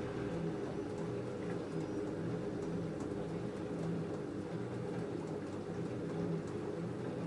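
LG F10A8HDS5 front-loading washing machine running a cotton wash cycle: a steady motor hum as the drum turns, with faint light ticks.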